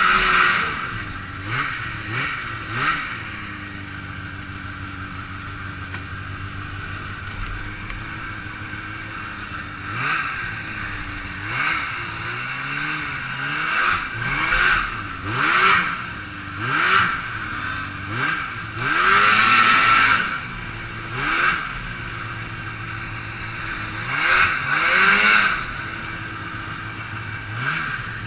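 Two-stroke Rotax snowmobile engine under a helmet cam, running low for a few seconds and then revved in a string of short throttle surges, with a longer high-revving run about two-thirds of the way through and another burst near the end.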